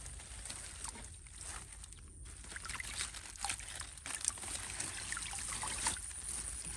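Shallow water trickling and splashing, with many small irregular splashes and sloshes.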